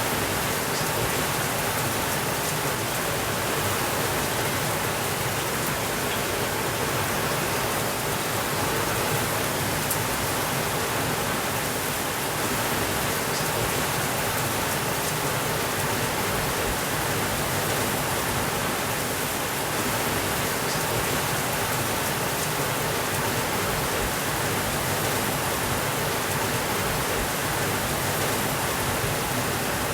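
Heavy rain falling steadily on a window: an even, unbroken hiss with no thunder.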